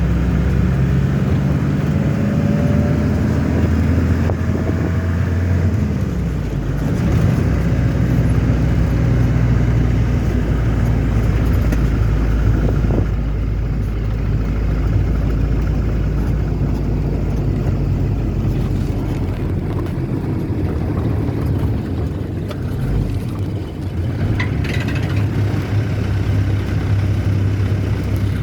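A car running steadily, its engine hum and road noise heavy in the low end, with the engine's pitch shifting a few times.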